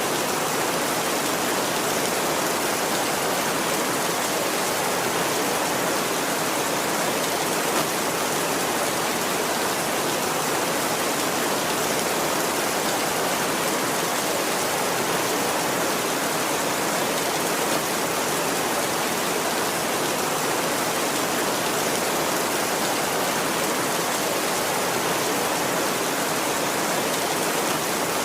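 Steady rain falling, an even hiss that holds at one level throughout, with no thunder.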